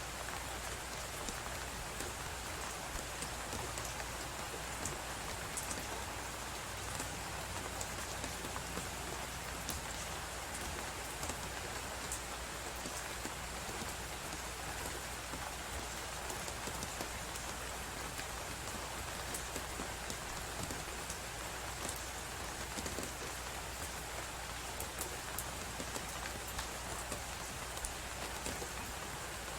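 Wood fire crackling with frequent small, irregular pops over a steady hiss of blizzard wind.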